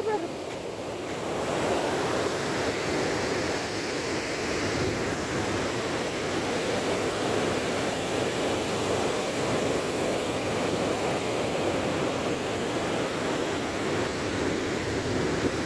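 Rough sea surf, waves washing in a steady roar of noise, with some wind on the microphone.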